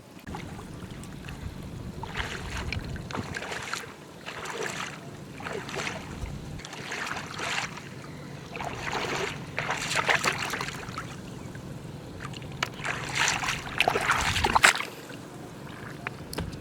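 Water splashing and sloshing in irregular surges, over a steady low hum.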